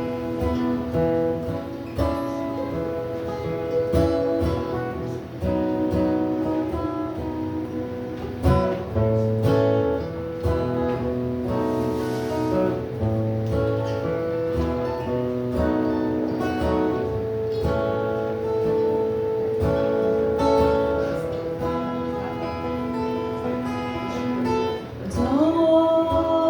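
Music: an instrumental break on plucked acoustic guitar between sung verses of the song.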